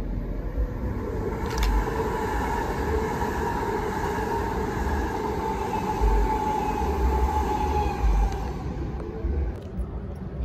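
Electric multiple-unit passenger train running past on the far track: a steady whine over the rumble of its wheels, fading away about two seconds before the end.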